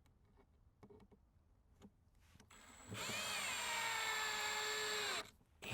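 Power drill driving a screw into a wooden cover board, running for about two and a half seconds from about three seconds in. Its motor pitch jumps up at the start, then sinks steadily as the screw bites and tightens, and it stops abruptly. A few light clicks come before it.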